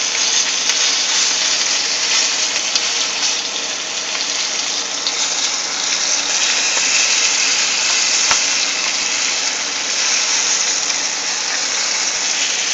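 Flour-coated squirrel pieces shallow-frying in hot oil in a skillet: a steady, loud sizzle with a few sharp pops, one about eight seconds in.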